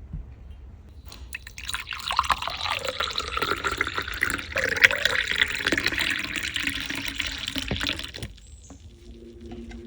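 Water running from a tap. It starts about a second in and cuts off near the end.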